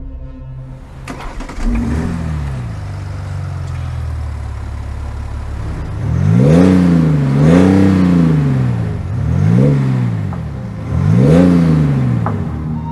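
BMW X5 (G05) engine starting: a click, a short flare of revs that settles to a steady idle, then four quick throttle blips in the second half, each rising and falling, heard close at the quad exhaust tips.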